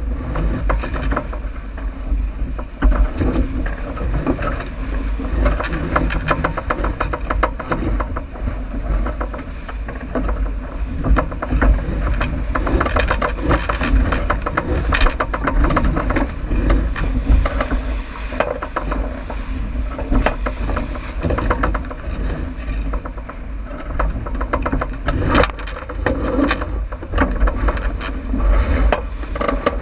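Wind buffeting the microphone over water rushing and slapping against the hull of a J80 sailboat running downwind, with frequent short knocks and clatters.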